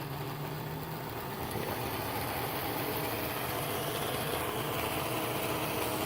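Small DC motor of an N scale F59PHI model diesel locomotive whirring steadily as it strains and fails to pull a heavy train up a steep grade, growing slowly louder.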